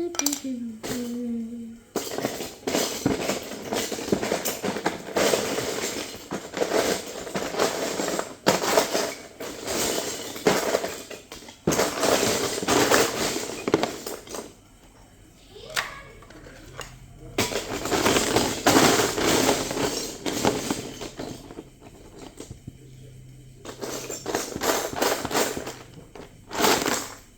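Loose plastic Lego bricks clattering and rattling as they are rummaged through and stirred, in bursts of a second or two with short pauses between.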